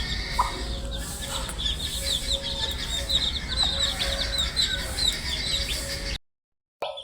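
A flock of baby chicks peeping continuously: many short, high chirps that fall in pitch, overlapping, over a steady low hum. The sound cuts out completely for about half a second near the end.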